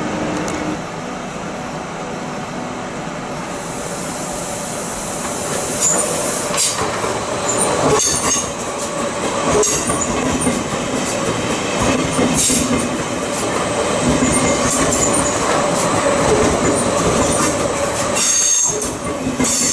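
Double-deck passenger train rolling past: a steady rumble of wheels on rail with sharp clicks and high-pitched wheel squeal, growing louder about four seconds in.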